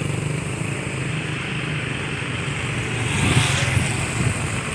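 Motor vehicle engine running steadily amid roadside traffic noise. A vehicle passes close by about three seconds in, with a brief swell of tyre and wind hiss.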